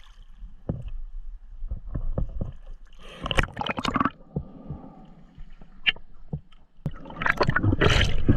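Water splashing and gurgling in irregular bursts, with low bumps, as a diver moves into the river.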